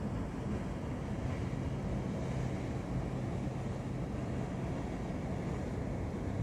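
Ship's engine running steadily: a low, even hum with a constant drone over a rumbling background.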